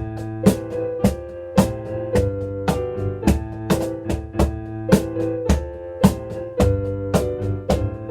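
Piano and cajón duet: piano chords and melody over a steady cajón beat, with strong strikes about twice a second and lighter slaps between them.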